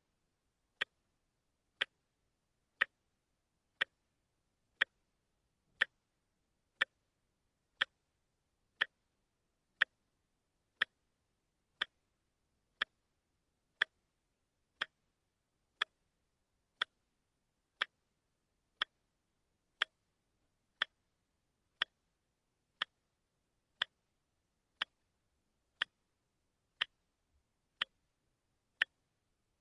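A watch ticking steadily, one sharp tick about every second.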